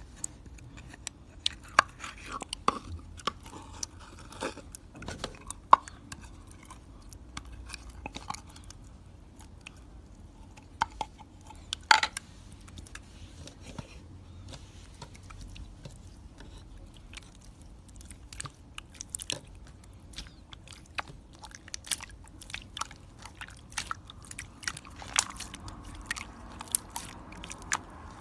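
Chewing and crunching: many short, sharp crunches and clicks keep coming, irregularly, with louder ones about 2, 6 and 12 seconds in.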